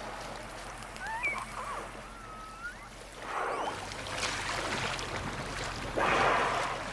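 Killer whales heard through a hydrophone: a few short whistles gliding up and down about a second in, then two raspy bursts of noise, the sound of a whale scraping its body against the pebble bottom.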